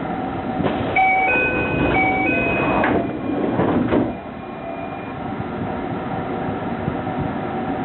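Train door chime sounding two alternating notes four times, then a thud about four seconds in as the sliding doors shut, leaving the steady rumble of the carriage.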